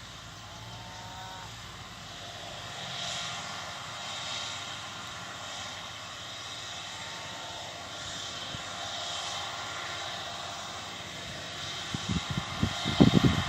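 Claas Lexion combine harvester running at a distance while harvesting, a steady drone with hiss that swells and fades as it moves. Loud, irregular low rumbles come in over the last second or so.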